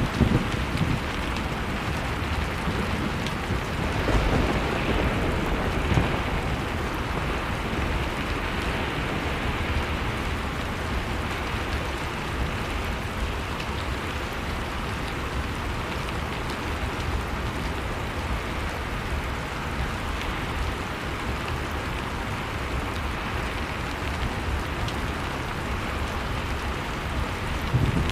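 Blizzard wind blowing steadily with a deep rumble, swelling slightly now and then, over the faint crackle of a wood fire.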